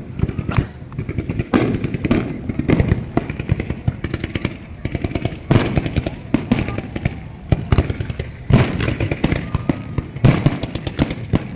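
Fireworks display: a continuous run of booming shell bursts and crackling, with heavier bangs every second or two.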